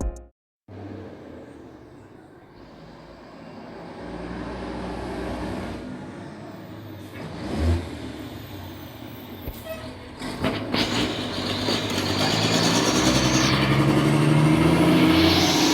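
Mack truck's diesel engine running, getting louder from about ten seconds in, with a single thump about eight seconds in.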